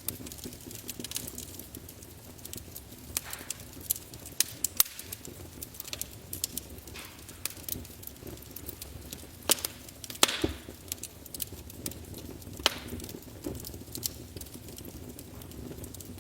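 Wood fire crackling in a fireplace: irregular sharp snaps and pops over the low, steady rush of the flames, with the loudest snaps about ten seconds in.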